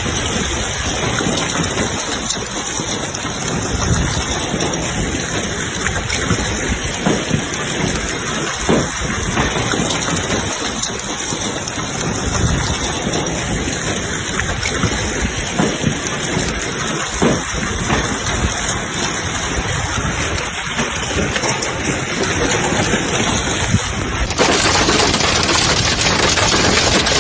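Heavy hailstorm: rain and hail pelting down with rushing storm water, a steady loud noise broken by scattered knocks. About 24 seconds in, the sound abruptly becomes brighter and hissier.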